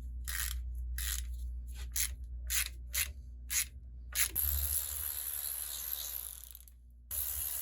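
A hand tool working on engine parts: short rasping strokes about twice a second, then two longer hissing scrapes with a brief break between them.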